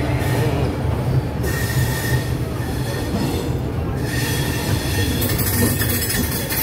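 Passenger express train pulling slowly out of a station: steady low rumble of the coach wheels on the track, with a faint high wheel squeal that comes and goes.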